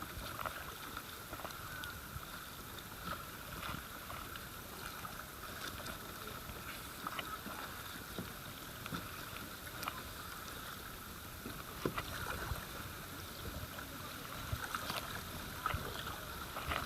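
River water running steadily around a kayak, with scattered small splashes and knocks from the paddle and hull.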